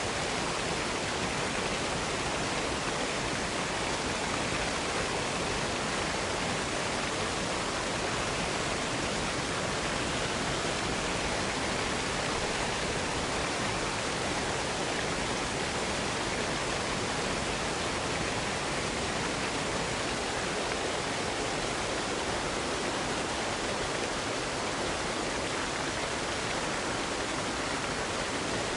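Waterfall rushing in a steady, unchanging hiss of falling water.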